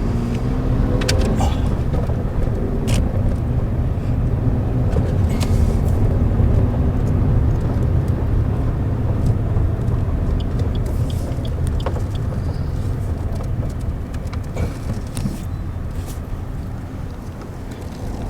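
Steady low rumble of a car driving, its road and engine noise, with a few light clicks and knocks.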